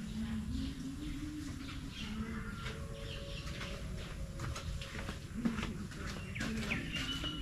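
Birds chirping and calling, with a low cooing call in the first couple of seconds, over a steady low rumble. A few soft taps near the end.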